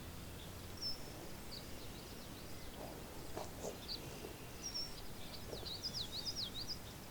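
Birds chirping outdoors: many short, high calls, some sliding up or down in pitch, coming thickest near the end, over a faint low background rumble.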